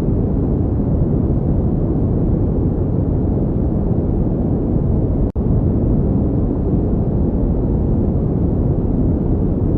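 Pink noise: a steady, even rushing hiss, strongest in the low end, with a brief dropout about five seconds in.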